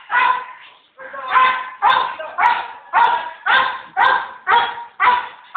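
A dog barking repeatedly, about two barks a second, after a short pause about a second in.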